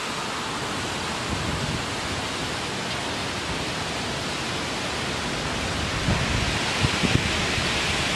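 Tropical-storm wind blowing hard, a steady rushing hiss with no let-up. From about six seconds in, gusts buffet the microphone with low thumps.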